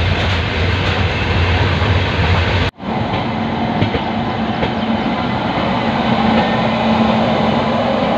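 Train running noise: first a steady low hum inside a sleeper coach, then, after a cut about three seconds in, the louder rumble and wheel noise of the train heard at an open coach doorway while a train hauled by an electric locomotive passes on the next track.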